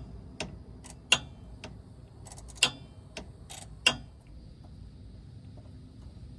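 Sharp metallic clicks and clinks from hand tools loosening the 10 mm bolt on a steering rack clamp, about eight irregular clicks over the first four seconds, some ringing briefly, then they stop.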